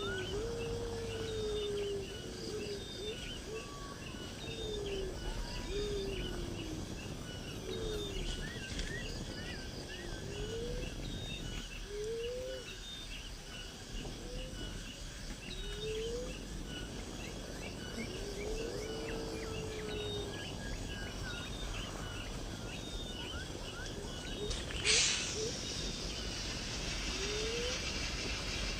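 Outdoor natural sound with birds calling: short swooping calls repeat every second or two, over a steady run of high, quick chirps. A brief sharp rasping noise cuts in once about 25 seconds in.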